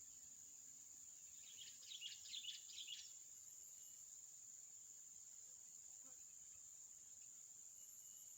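Steady high-pitched insect drone, with a brief burst of rapid bird chirps and twitters about two seconds in.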